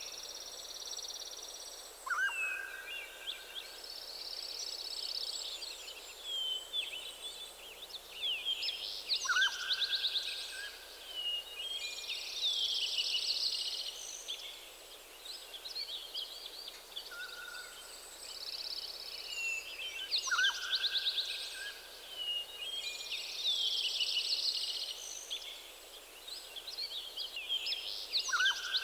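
Several songbirds singing together in a morning chorus, with overlapping chirps, trills and warbles. One lower call, a quick drop into a short held note, comes back every several seconds.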